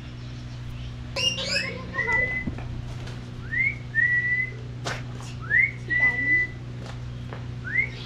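Aviary bird calling: a burst of quick chattering notes about a second in, then a clear two-part whistle, a quick rising note into a held level one, repeated about every two seconds, four times.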